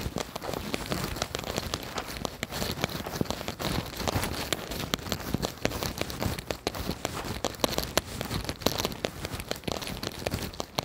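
Rain falling steadily, with a dense, irregular patter of drops striking close to the microphone.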